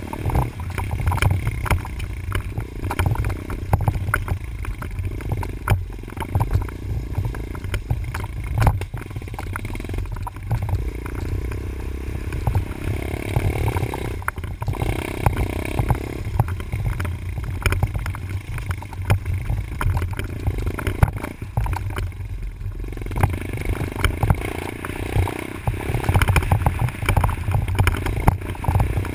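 Dirt bike engine being ridden around a track, its note rising and falling with the throttle, easing off briefly about halfway through and again near three-quarters through, with rattling and clatter from the ride.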